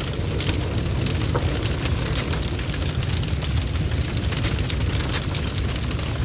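Bonfire crackling: frequent sharp pops and snaps over a steady low rumble of the flames.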